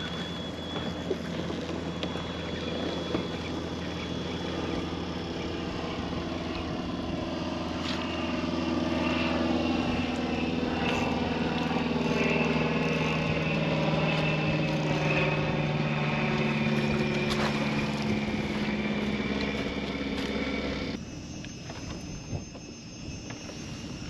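Kayak-mounted electric trolling motor (MotorGuide Xi3) running, a steady motor hum whose pitch drifts as the speed changes, over wind and water noise; the sound drops off abruptly about three seconds before the end.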